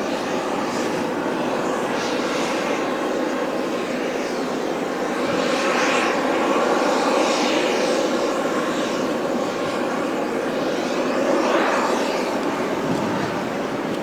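Engines of a landing airliner on approach: a continuous rushing roar that swells in the middle and again near the end as the plane passes. Strong wind noise hits the microphone.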